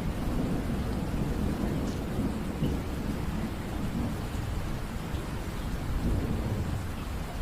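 Steady rain with a low, rolling rumble of distant thunder underneath.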